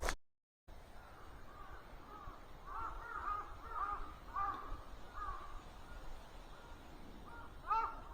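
Crows cawing: a run of repeated caws a few seconds in, fainter ones after, and a louder pair near the end, over faint outdoor ambience.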